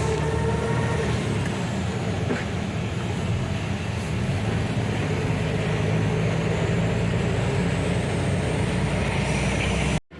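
MAN TGA truck's diesel engine running steadily while driving, with road noise; it cuts off suddenly near the end.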